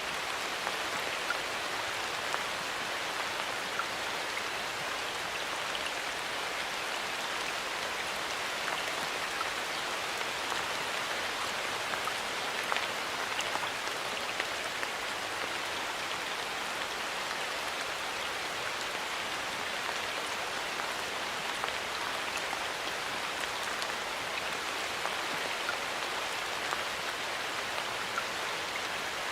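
Steady rain falling in a forest, an even hiss with many small drop ticks scattered through it.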